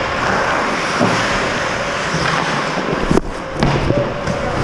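Ice hockey play as heard from a goalie's helmet camera: a steady rushing hiss of skates and air over the microphone, with a few knocks of sticks or puck a little past three seconds in.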